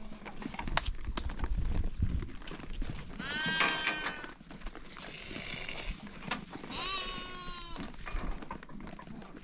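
Bleating of sheep or goats: two long calls, one about three seconds in and one about seven seconds in, each lasting about a second. Knocks and a low rumble are heard during the first two seconds.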